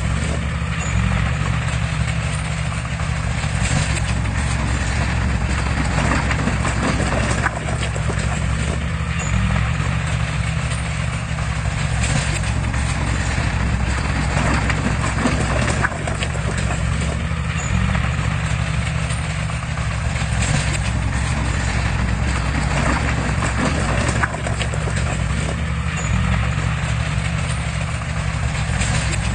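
Heavy diesel construction machine running steadily under load, a deep engine drone with continuous metallic clanking and rattling over it.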